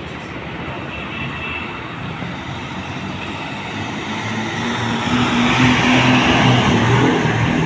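Heavy road vehicle passing at speed: engine drone and tyre noise build up, are loudest about six seconds in, then start to fade.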